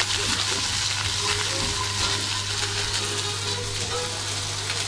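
Food frying in a pan: a steady sizzling hiss over a low, constant hum.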